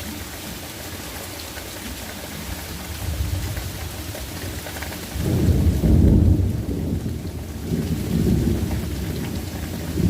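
Steady rain falling, with thunder rumbling that builds about a third of the way in and swells loudest around the middle, then rolls on in further waves.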